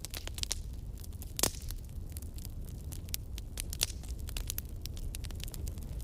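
Wood campfire crackling: a dense scatter of sharp snaps, with one louder pop about one and a half seconds in, over a steady low rumble.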